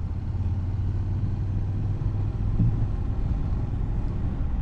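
Motorcycle engine running steadily on the move, a low rumble with a brief rise about two and a half seconds in.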